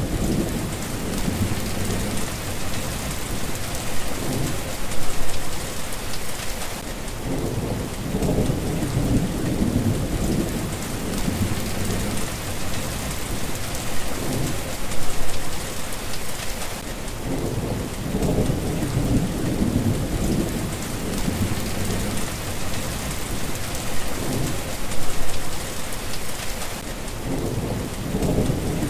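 Steady rain hissing, with low rolling thunder rumbling in the background. The thunder swells and fades again and again, peaking briefly about every ten seconds.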